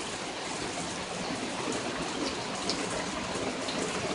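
Heavy rain pouring down on a barn, a steady even hiss with a few faint drip ticks.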